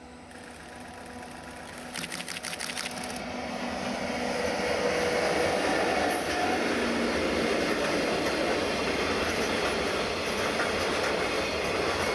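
EF64 electric locomotive hauling a container freight train, growing louder as it approaches over the first four seconds. A short spell of rapid clicking comes about two seconds in. After that the container wagons roll past with a steady rumble and wheel clatter.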